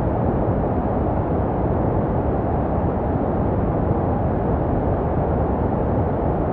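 Steady, unchanging baby-sleep white noise, weighted toward the low end: a deep, even rush with little hiss, made to resemble the sounds a baby hears in the womb.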